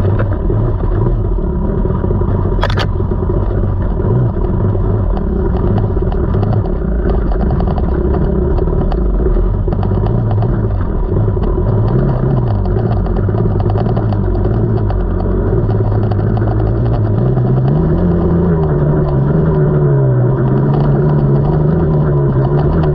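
KTM 300 two-stroke single-cylinder dirt bike engine under way on a trail, its revs rising and falling as the throttle is worked, and pitching up and holding higher near the end. A single sharp click sounds about three seconds in.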